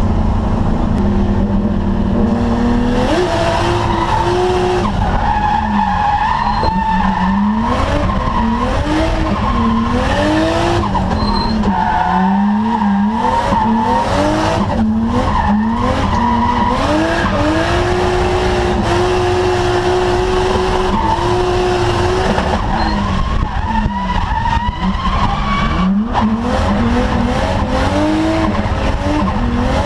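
Nissan R33 Skyline drift car's engine revving up and falling back again and again, with tyres squealing as it drifts through the corners. The revs hold steady for a few seconds midway.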